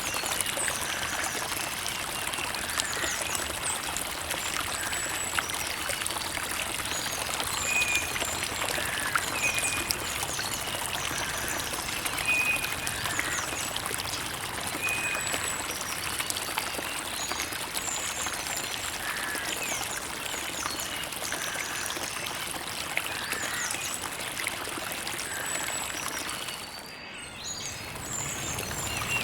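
Creek water trickling and running steadily, with small birds chirping now and then. The water sound dips briefly near the end.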